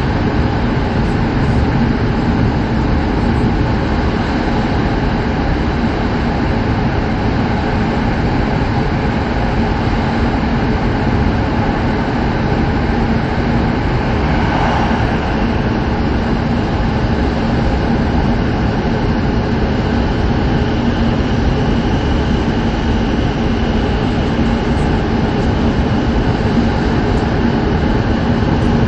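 Cabin running noise of an E7 series Shinkansen under way: a steady rush and rumble from the wheels and the air, with a steady low hum. There is a brief swell about halfway through.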